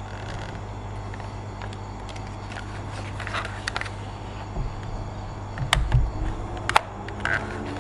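Clicks and rustles of plastic toy parts and packaging being handled, a few sharp clicks near the end, over a steady low hum.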